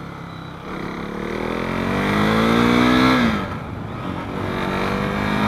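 KTM 390 Duke's single-cylinder four-stroke engine accelerating, its pitch climbing for about three seconds. The pitch then drops sharply at an upshift and climbs again before holding steady.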